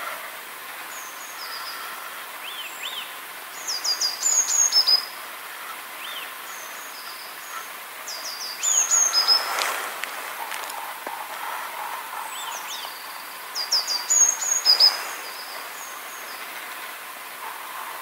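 Birdsong: one songbird sings a short phrase of quick high notes three times, about five seconds apart, over softer chirps from other birds.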